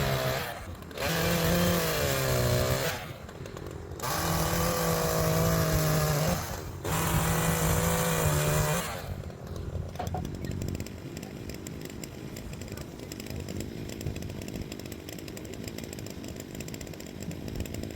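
Chainsaw run at full throttle in four bursts, its pitch sagging and recovering within each, as when bucking logs. After about nine seconds it drops back to a steady idle.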